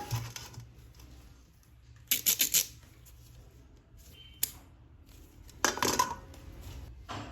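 Small hard objects clicking and clattering as they are handled: a quick run of four clicks about two seconds in, a single click, then a short rattle near the end.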